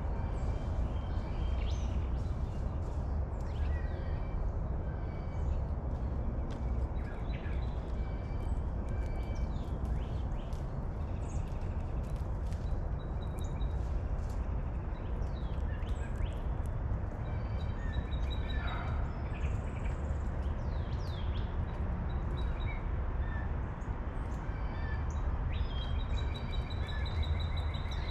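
Wild birds chirping and calling in short, scattered notes over a steady low rumble, with a rapid trill in the last few seconds.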